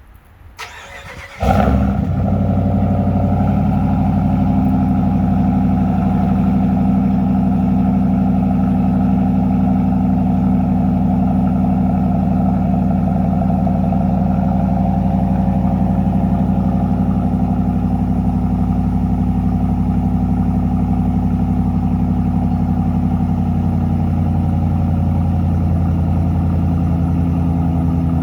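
2021 Ram 1500's 5.7 Hemi V8 cold-starting through a Borla ATAK exhaust: a brief crank, the engine catching with a loud flare, then settling into a steady, deep idle. About 23 seconds in, the fast cold idle drops to a lower pitch.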